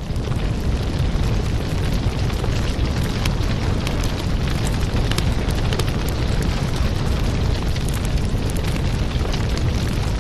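Burning firewood crackling steadily, with frequent sharp pops over a low, steady rumble of the flames.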